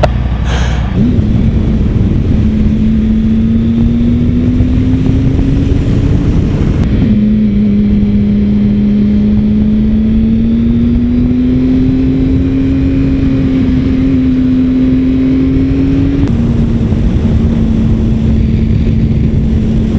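Triumph Sprint ST 1050's three-cylinder engine pulling while riding, its note climbing slowly and then dropping suddenly twice, about seven and sixteen seconds in, as it shifts up a gear. Heavy wind rumble on the microphone runs under it.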